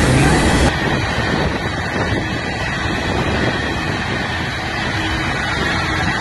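Freight train of tank cars rolling past, a steady rumble with wind on the microphone; the sound drops abruptly in level under a second in.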